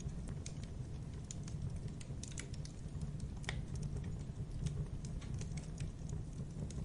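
Fire crackling in a fireplace: irregular sharp pops and snaps, some louder than others, over a steady low rumble.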